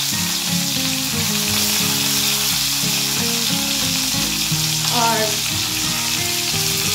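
Tomato wedges sizzling in hot oil in a frying pan, a steady hiss.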